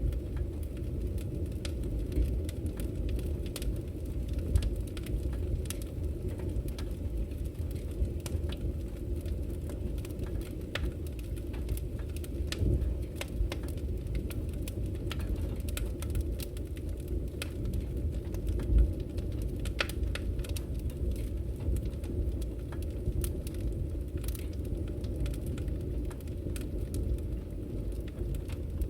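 Wood fire crackling in a fireplace: a steady low rumble of burning logs with frequent small sharp pops and snaps, a few louder ones scattered through.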